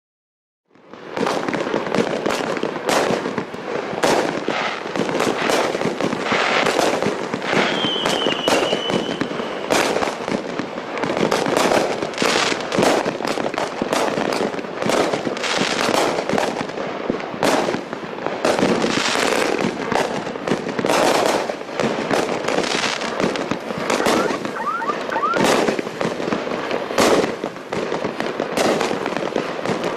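A 33-shot, 500-gram consumer fireworks cake (Red Lantern 'Team Coco') firing: a rapid, unbroken run of shots and aerial bursts that starts about a second in and keeps going.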